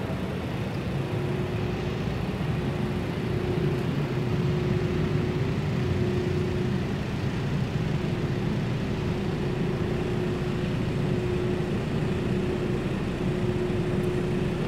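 Steady background drone of a large showroom building, with a constant low hum and no distinct events.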